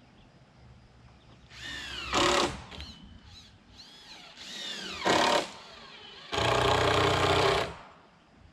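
Handheld power drill or driver running in three short bursts, its motor pitch rising and falling with the trigger; the last run is the longest and steadiest, about a second and a half.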